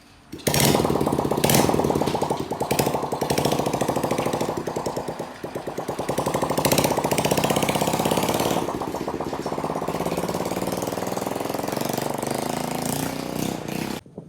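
A motor running with a rapid pulsing beat, its speed rising and falling, cutting off suddenly near the end.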